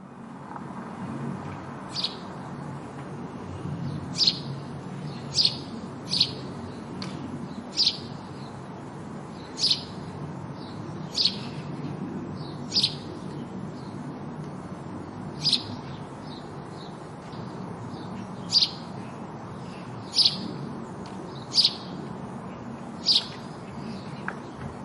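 House sparrow chirping: single short, sharp chirps repeated about once every second or so, over a steady low background rumble.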